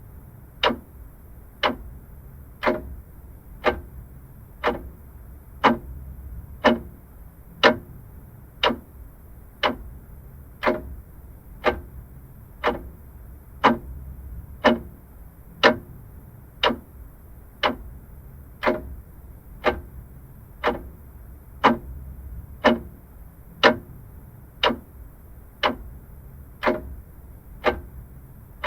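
Vintage clock ticking steadily, about one sharp tick a second.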